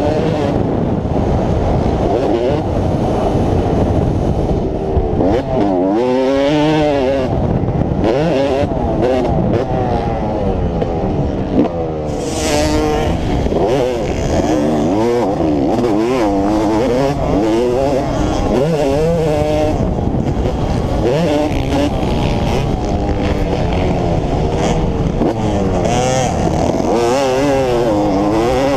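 Motocross dirt bike engine revving hard and backing off again and again, its pitch rising and falling every second or two as it is ridden around the track. A short hiss is heard about twelve seconds in.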